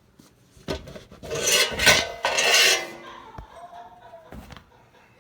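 Dishwasher parts being handled during a heating-element repair, scraping and clattering. There is a knock under a second in, then a loud scraping rub lasting about two seconds, then two more single knocks.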